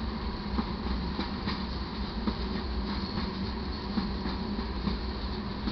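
Loaded iron-ore (taconite) hopper cars of a freight train rolling past: a steady rumble of steel wheels on rail, with sharp clicks here and there.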